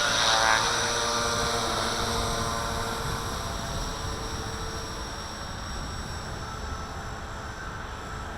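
Walkera V450D01 electric RC helicopter's motor and rotors whining steadily in a hover, the sound slowly growing fainter. Wind buffets the microphone underneath.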